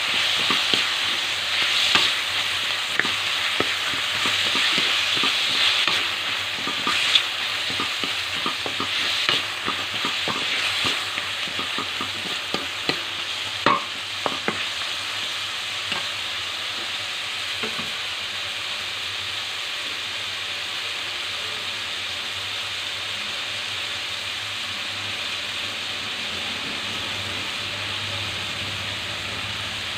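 Chicken pieces, carrot strips and onion sizzling in hot oil in a metal wok, stirred with a wooden spatula that scrapes and knocks against the pan. The stirring stops after about sixteen seconds and the frying goes on as a steady sizzle.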